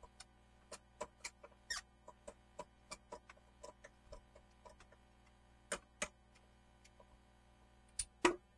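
Irregular light clicks and taps, two or three a second, with a louder pair of knocks near the end.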